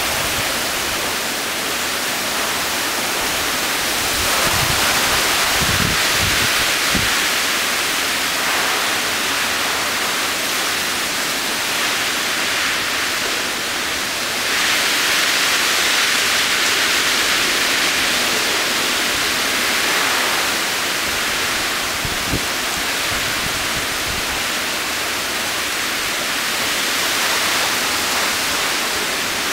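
Heavy hurricane rain pouring down in a steady hiss that swells louder in waves, with a few brief low thumps.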